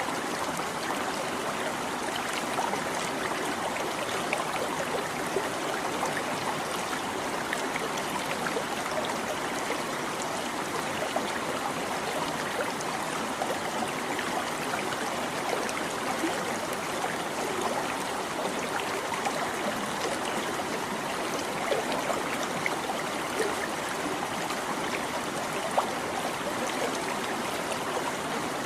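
A small stream babbling over stones, a steady rush of water with constant small splashes and trickles.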